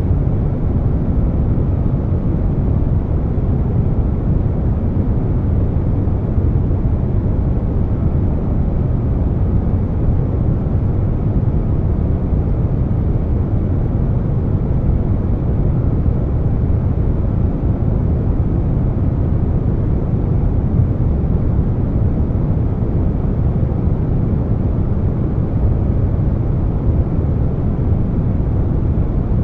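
Air conditioner noise blended with brown noise: a steady, deep rushing hum, most of it low, with no changes.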